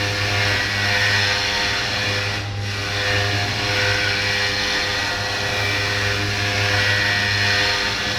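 CNC orthopedic milling machine running, its spindle and cutter milling a prosthetic model: a steady hum with several steady whining tones above it. The high part of the sound drops out briefly about two and a half seconds in.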